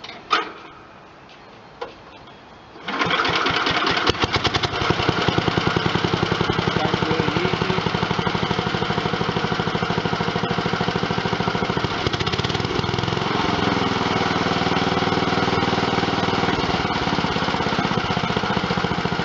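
Wisconsin 7 hp air-cooled engine on a Bush Hog V4-7 garden tractor starting up. After a couple of light clicks, it catches about three seconds in and runs steadily with a fast, even chug.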